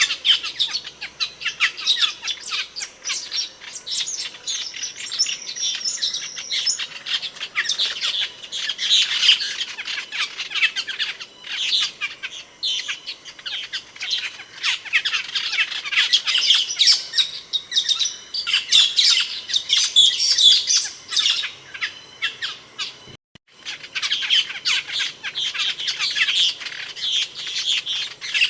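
Asian glossy starlings calling: a dense, rapid stream of short, sharp, high-pitched chirps and squawks. There is a brief gap about three quarters of the way through.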